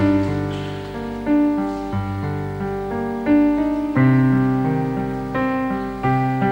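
Piano accompaniment playing the instrumental interlude between sung verses: slow chords struck about every second or so, each ringing and fading before the next.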